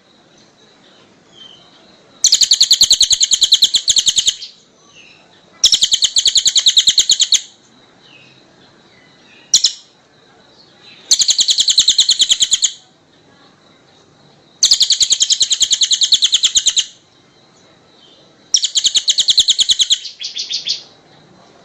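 A small songbird repeating a rapid, high trill. Each phrase lasts about two seconds, and it comes five times with short pauses between.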